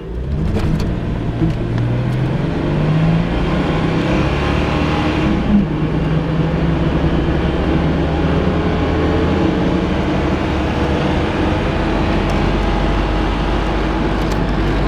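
2004 Jeep Grand Cherokee's 4.0-litre inline-six accelerating hard from a standstill, its pitch climbing, dropping at an automatic upshift about five and a half seconds in, then climbing again. Steady road noise from the thick-tread tyres runs underneath.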